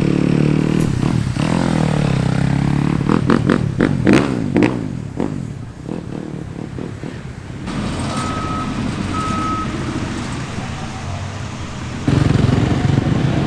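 Motocross bike engines revving hard, the pitch dropping and climbing again, with rapid bursts of throttle. The sound then eases to a steadier engine rumble with two short high beeps, before a loud engine sound cuts in near the end.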